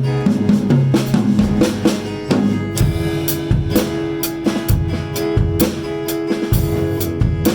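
Live improvised instrumental jam by a keys, guitar and drums trio: steady drum-kit beat with cymbals, with guitar and keyboard playing over it.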